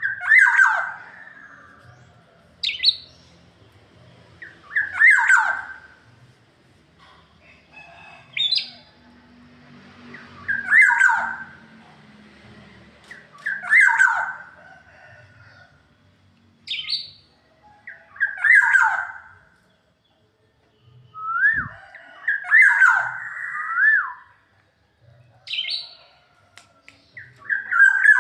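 Black-naped oriole (kepodang) singing. Loud whistled phrases that dip in pitch repeat about every three seconds, with short, higher notes between them.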